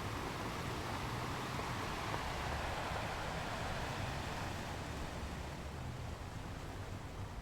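Ocean surf washing onto a beach: a steady rushing wash that swells about two to three seconds in, then slowly ebbs.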